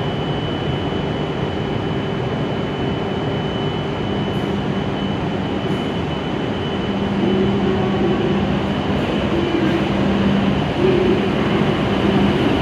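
W7 series Shinkansen train starting away from a station platform: a steady running hum while it stands, then a low tone joins about four seconds in and the sound grows louder from about seven seconds as the train gathers speed.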